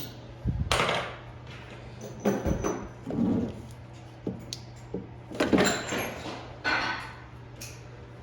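Irregular clanks, knocks and scrapes of metal parts and tools being handled during washing-machine repair work, about ten separate bumps over a steady low hum.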